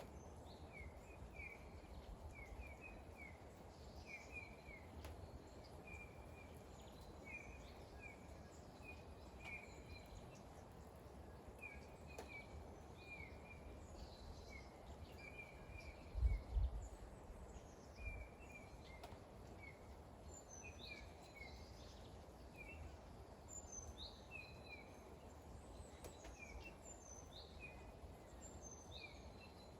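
Small birds chirping in quick repeated short notes over a faint steady background hiss. A brief low thump about halfway through is the loudest sound.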